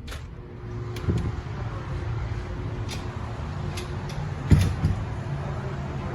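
Older Hanna automatic car-wash tunnel equipment running: a steady mechanical hum with spray noise, broken by several sharp knocks, the loudest about four and a half seconds in.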